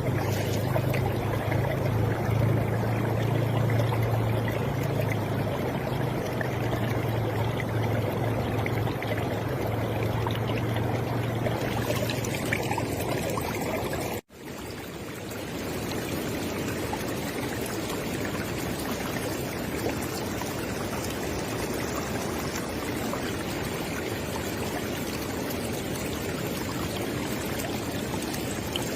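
River water flowing steadily, with a low rumble underneath for the first part. About halfway through the sound cuts out for an instant and comes back without the rumble.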